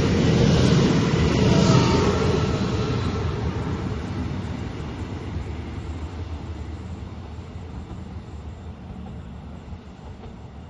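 Trenitalia Alstom ETR104 "Pop" regional electric train passing: the rumble of its wheels on the rails, loud at first and fading steadily as the train moves away into the distance.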